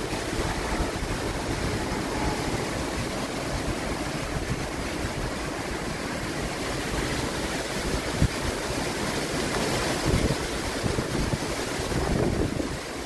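Loud storm wind rushing and gusting, with rain, buffeting the microphone in low rumbles; the rush swells in stronger gusts toward the end. A single brief knock about two-thirds of the way through.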